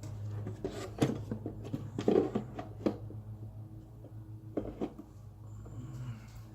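Handling noise: a few sharp clicks and knocks of small hard parts being picked up and set down, loudest as a cluster about two seconds in, over a steady low hum.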